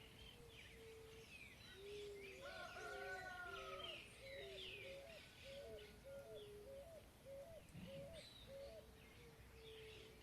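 Faint chorus of several birds singing and chirping, with a low short call repeated about twice a second underneath.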